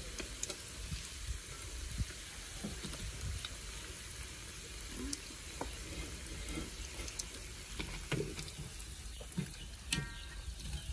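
Tofu frying in hot oil, a steady sizzle with scattered clicks of utensils against the pan.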